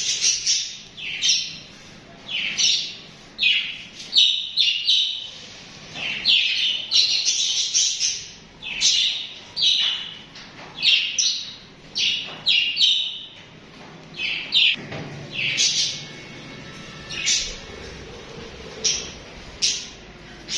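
Budgerigars chirping, short high chirps coming one after another, about one or two a second.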